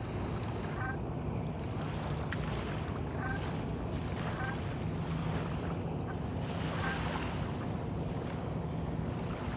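Small bay waves lapping and washing every second or so, over a steady low wind rumble on the microphone.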